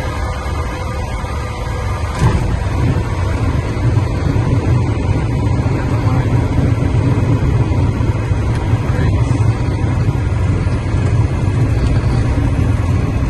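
Cessna 172's single piston engine and propeller running steadily with a low drone. A sharp thump comes about two seconds in, after which the engine is a little louder.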